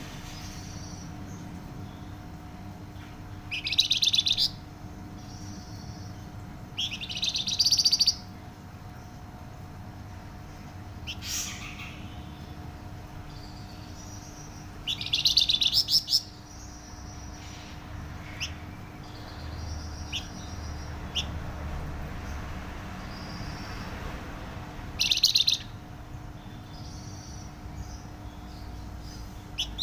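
A flamboyan songbird singing loud, tightly packed, high-pitched bursts of song, five of them about a second long, with softer short chirps in between. A steady low electrical hum runs underneath.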